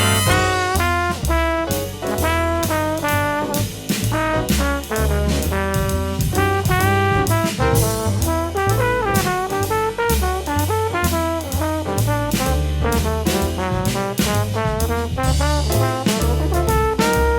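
Big band jazz: the brass section, trombones and trumpets, playing short punchy ensemble figures over bass and drum kit.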